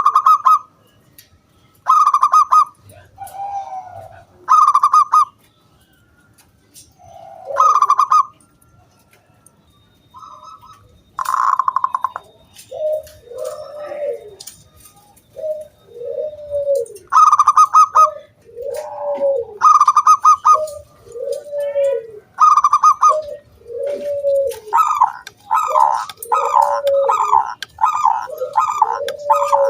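Zebra doves (perkutut) cooing: short, rapid stuttering bursts of high coos every few seconds. Partway through, a lower arched coo starts repeating steadily alongside them, and near the end the high coos come in a fast continuous run.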